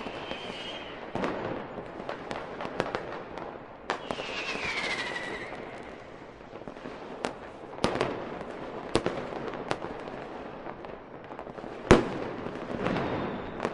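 Fireworks display: sharp bangs of aerial shells bursting every second or so, the loudest about twelve seconds in. A falling whistle sounds from about four to five seconds in, and a crackling haze follows the last big bang.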